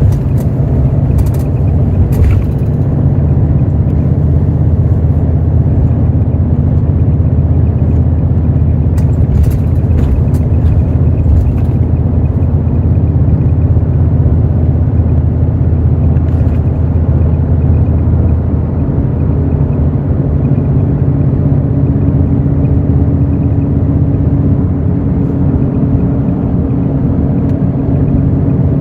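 Hino J08E-VD 7.7-litre inline-six diesel of a Hino RN8JSVU intercity bus running steadily under way, heard from inside the bus. A few light clicks or rattles come in the first half, and the engine note changes about two-thirds of the way through.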